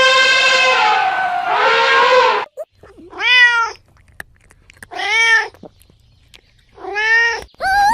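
A cat meowing: one long drawn-out meow that drops in pitch and ends about two and a half seconds in, then three short meows, each rising and falling, about two seconds apart.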